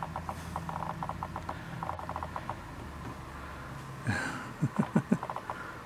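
Three-week-old West Highland White Terrier puppies squeaking in quick, repeated little bursts, with a louder cluster of low pulses about four seconds in.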